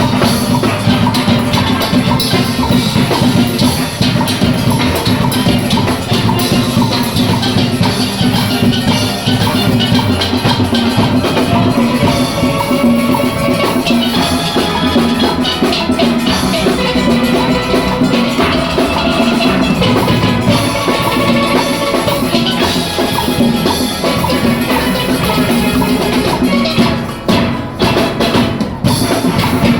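Steel orchestra playing: a full band of steelpans over a drum kit and percussion rhythm section, with the music briefly thinning out about 27 seconds in before carrying on.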